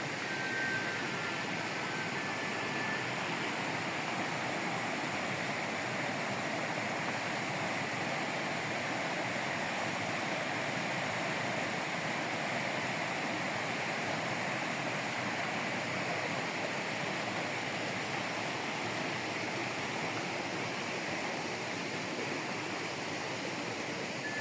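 Steady rushing of fast-flowing mountain water, an even continuous wash of sound that does not change.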